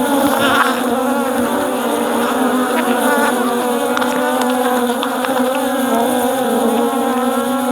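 Honeybees from an opened hive buzzing in a steady, dense drone, many of them flying close around the microphone: a lively colony stirred up by the inspection.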